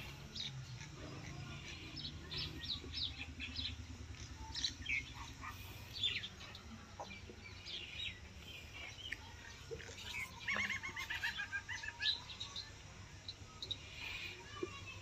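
Small birds chirping, with a quick trill of repeated notes a little past the middle, over a low steady hum.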